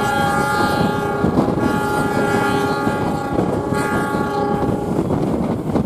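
Train horn sounding in long blasts that stop about five seconds in, over the steady rumble of the train running on the track.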